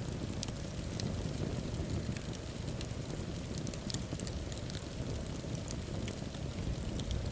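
Wood fire burning in a fireplace: a steady low rumble of flames with many scattered sharp crackles and pops from the burning logs.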